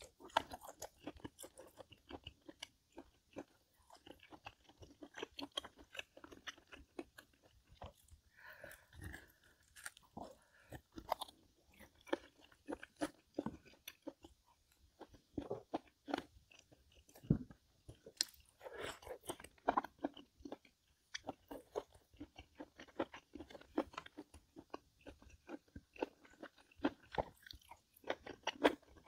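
A person chewing and crunching food, a dense irregular run of crisp bites and chews.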